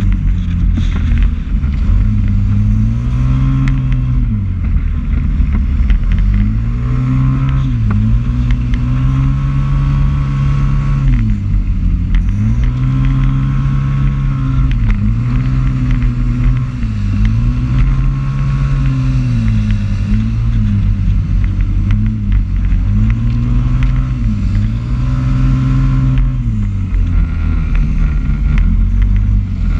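Motorbike engine heard from an onboard camera, its pitch rising and falling every two to three seconds as the rider accelerates out of each corner and backs off into the next, with wind rushing over the microphone.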